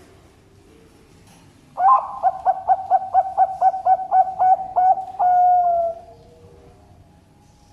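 Perkutut (zebra dove) cooing: a fast run of about a dozen even notes, about four a second, ending in one longer drawn-out note that dips slightly as it fades.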